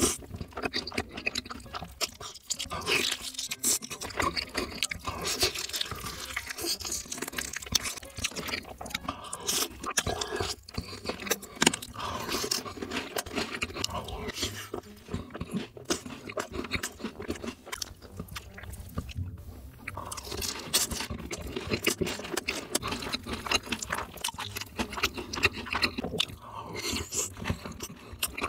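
Close-miked eating: crunching bites and chewing of sauce-glazed fried chicken dipped in cheese sauce, with many irregular crackles and wet mouth sounds throughout.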